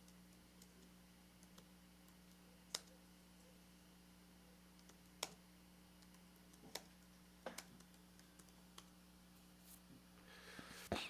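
Faint, scattered clicks of a computer mouse and keyboard, about six single clicks a second or more apart, over a low steady electrical hum; a louder rustle and click come near the end.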